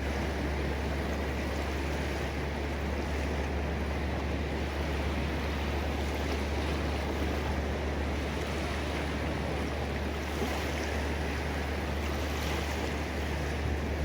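Ocean surf, a steady wash of water noise with a constant low rumble beneath it.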